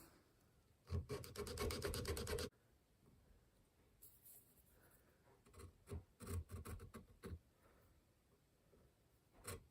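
Hand checkering cutter rasping through wood in quick scraping strokes. There is a dense run of strokes about a second in that lasts about a second and a half, then scattered strokes around six to seven seconds in and again near the end.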